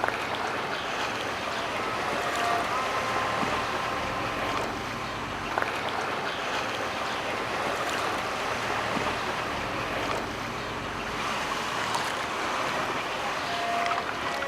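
Steady wash of sea water and small waves, with wind noise on the microphone. A sharp knock comes about five and a half seconds in.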